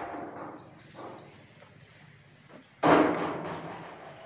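A bird chirps a quick run of about seven short rising notes in the first second or so. About three seconds in comes a single loud thud, which fades away over about a second.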